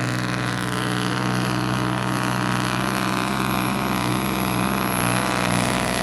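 Supersport-class pulling truck's diesel engine running hard at steady high revs under load during a pull, with a thin high whistle held over it.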